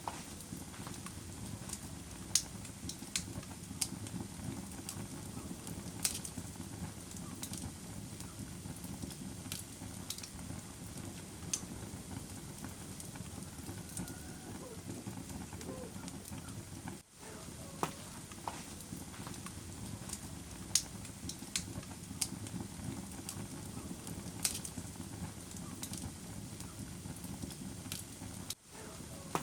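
Wood fire crackling in a fireplace: a steady low rumble of burning with scattered sharp pops and snaps. The sound cuts out briefly twice, near the middle and near the end.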